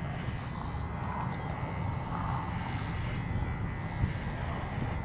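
Electric hair clippers buzzing steadily while shaving a head, with a short knock about four seconds in.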